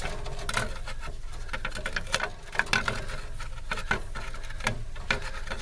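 Irregular small clicks and crackles of hand work, tape being wrapped over the cut open end of a copper refrigerant line to keep debris out.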